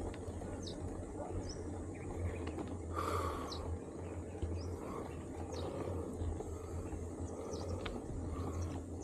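Birds giving short, high, falling chirps every second or so over a steady low rumble, with a brief rustling hiss about three seconds in.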